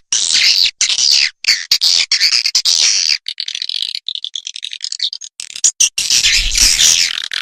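Recorded swiftlet calls played as a farmer's lure to draw swiftlets into a nesting house: dense, rapid, high-pitched chirps and twitters. They fade briefly in the middle and come back loud near the end.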